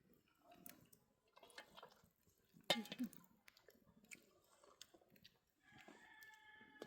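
Faint eating sounds: quiet chewing with small clicks, and one sharper click about three seconds in. Near the end a steady whistling tone lasts about two seconds.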